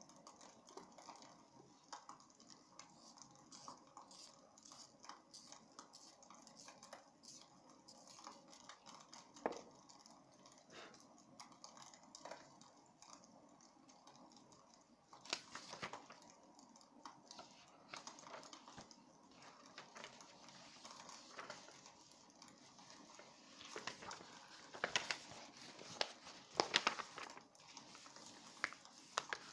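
Wood fire crackling in a fireplace: irregular small pops and snaps over a faint hiss, with a few louder bursts of crackling around the middle and near the end.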